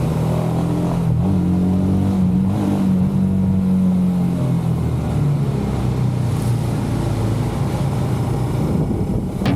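Royal Enfield motorcycle engine running, its note stepping up about a second in and dropping lower around five seconds in.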